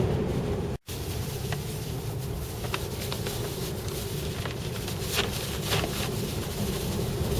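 Steady road and engine rumble with wind noise inside a vehicle driving through a ground blizzard, with scattered light ticks. The sound cuts out for a moment under a second in, then resumes.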